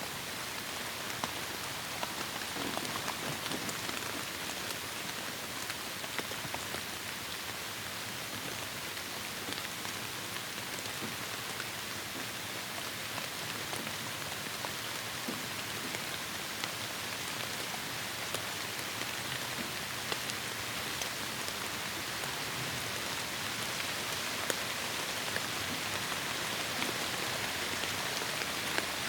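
Heavy rain falling steadily on forest foliage: a dense, even hiss with individual drops pattering and ticking through it.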